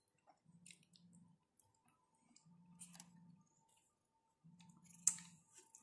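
Quiet wet mouth sounds of a man eating soft durian flesh: sharp lip-smacking clicks, the loudest near the end, and three short low hums about two seconds apart as he chews.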